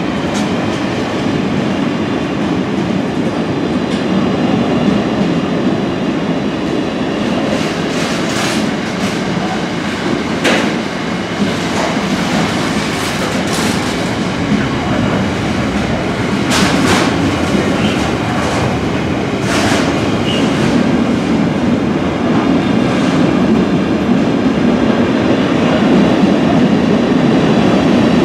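Container freight train's loaded intermodal wagons rolling past at speed, a steady rumble of steel wheels on rail. A few short, sharp clicks from the wheels cut through the rumble through the middle of the pass.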